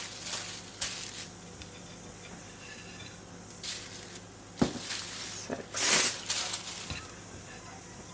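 Paper deli sheets rustling and crinkling as raw chicken breasts are layered between them, in several short bursts with the loudest about six seconds in.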